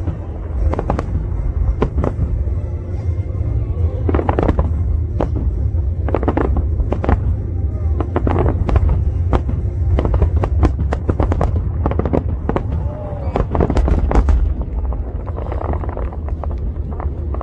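Aerial fireworks display: repeated sharp bangs and crackling bursts over a continuous low rumble of shell explosions, with music playing underneath.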